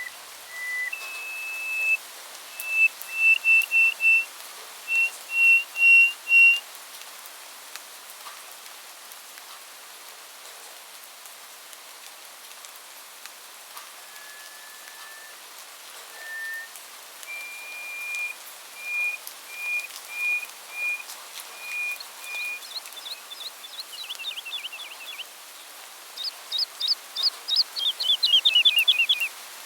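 Songbirds singing: runs of clear, evenly repeated whistled notes at a few steady pitches, with a pause in the middle. Near the end come quick, steeply falling notes, over a steady background hiss.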